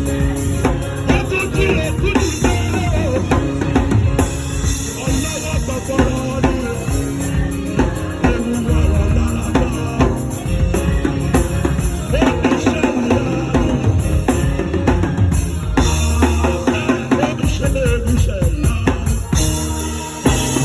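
A live worship band playing, led by a busy drum kit with bass drum, snare and rimshots over held chords.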